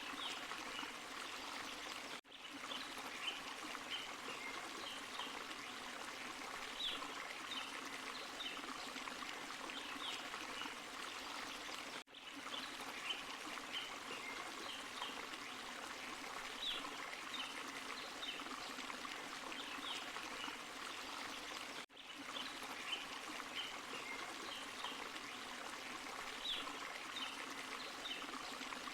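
Small forest waterfall and stream: steady splashing and trickling water. The same stretch repeats about every ten seconds, with a brief dropout at each join of the loop.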